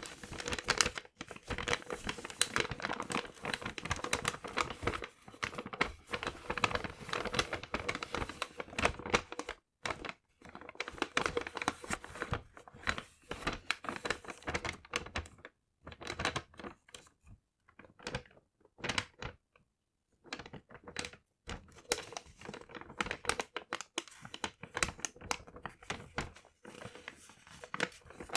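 Paper being crumpled and handled close to the microphone, crackling and rustling in irregular bursts. Short pauses come about ten and fifteen seconds in, and a longer lull runs from about seventeen to twenty-one seconds before the crinkling resumes.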